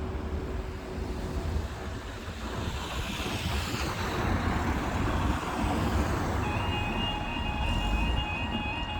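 Road traffic passing, then about two-thirds of the way in the level crossing alarms start sounding: a steady high tone together with a lower tone that steps up and down regularly.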